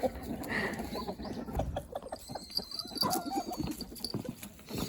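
Quiet outdoor sounds: scattered short clicks and soft animal calls, with a faint high chirp a little past halfway.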